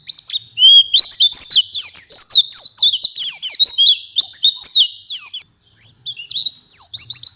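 White-eye (pleci) singing a fast, varied song of quick high chirps and sweeping notes, breaking off briefly a little past five seconds in before going on.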